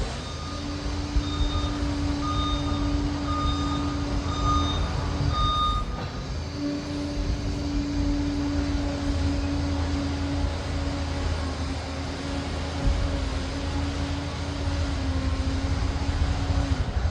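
Liebherr PR 746 crawler dozer's diesel engine and drive running steadily under work, with a steady whine over the rumble. A reversing alarm beeps about once a second for roughly the first six seconds, then stops.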